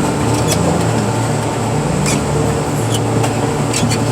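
Heavy machinery engine running steadily under load, with a few scattered light ticks.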